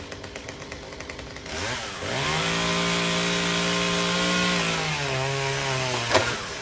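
A small engine ticks over quietly at idle. About two seconds in it revs up and holds a steady, high engine note. About five seconds in it eases back to a lower note, and a sharp click comes near the end.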